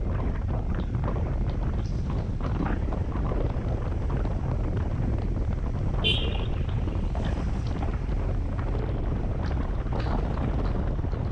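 Wind buffeting an action camera's microphone on a Honda CB150X single-cylinder motorcycle under way, with the engine and road noise running underneath as a steady low rumble. A short high-pitched chirp sounds once, about six seconds in.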